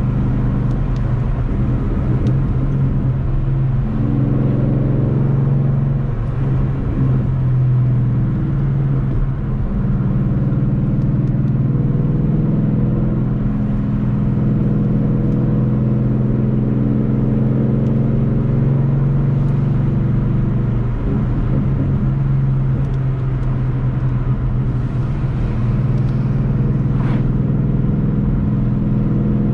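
Ford Mustang GT's 5.0-litre V8 running at a steady cruise, a low engine drone over road noise. The engine pitch shifts briefly a few times: a few seconds in, about eight seconds in, and about two-thirds of the way through.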